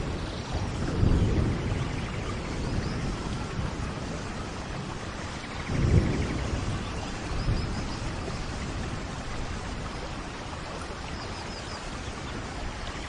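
Steady rain falling, with low thunder rumbles about a second in and again, louder, around six seconds in.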